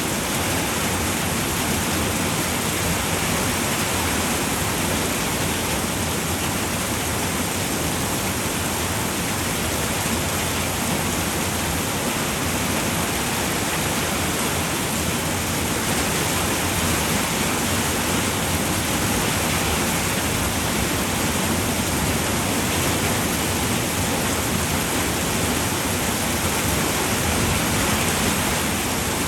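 Steady rain falling on a roof, a dense even hiss with no single drops standing out.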